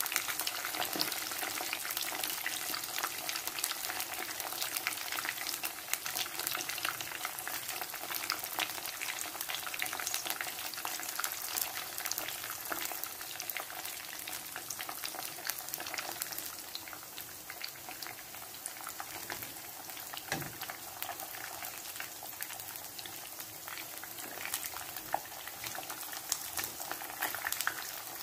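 Seaweed-wrapped, coated pieces shallow-frying in hot oil in a pan: a dense, steady crackle and sizzle, easing slightly a little past the middle.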